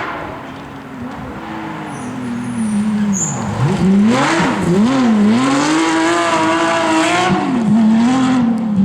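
Porsche 911 GT3 rally car's flat-six engine revving hard, its pitch falling and rising several times as the driver lifts off, shifts and accelerates again. It grows louder from about a second in and is loudest in the second half.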